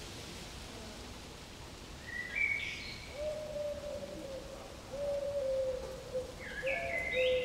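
Birds calling: after a soft steady hiss, short rising chirps start about two seconds in, joined by repeated low held notes that come every second or two.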